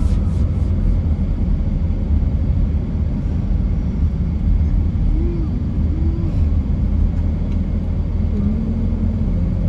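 Steady low rumble, with a faint voice heard briefly about halfway through and again near the end.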